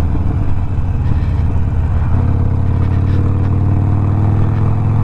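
Harley-Davidson Sportster Iron 1200's air-cooled V-twin running through a Two Brothers 2-into-1 exhaust, a steady engine note that settles into a smoother, more even tone about two seconds in.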